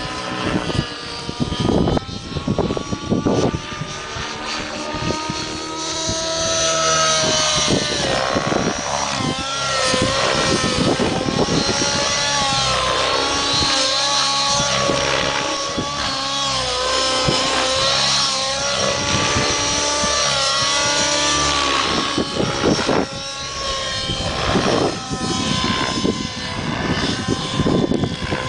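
Nitro-powered T-Rex 700 RC helicopter flying 3D manoeuvres: its glow engine and rotor run hard, the engine's whine rising and falling in pitch over and over.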